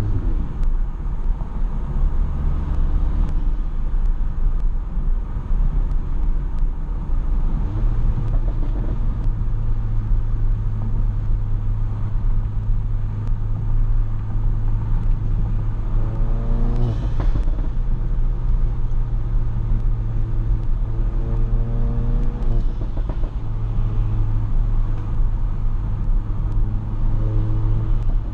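Volkswagen GTI's turbocharged 2.0-litre four-cylinder, fitted with an IS38 turbo, driving on the road as heard from inside the car. It keeps up a steady low hum, and its pitch rises and falls several times as the engine speed changes, most clearly about halfway through.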